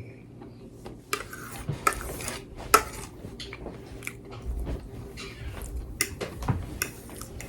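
Cutlery clicking and scraping against a dinner plate. The clicks start about a second in and recur irregularly, the loudest near the 3-second mark.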